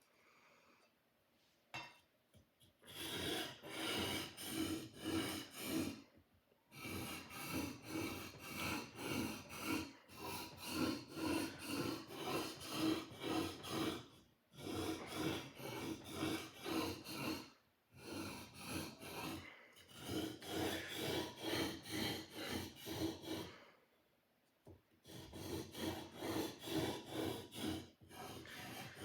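Sword blade being sharpened: quick rasping strokes of steel against an abrasive, about three a second, in runs of several seconds broken by short pauses.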